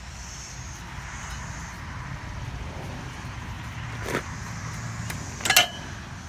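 Two sharp metallic clinks, the second louder and ringing briefly, as the cooling fan is worked off a 1956 Willys Jeep engine, over a low steady rumble.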